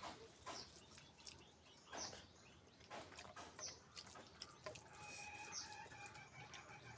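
Faint eating sounds: scattered wet mouth clicks and lip smacks of chewing. During the last two seconds a faint, drawn-out pitched call sounds in the background.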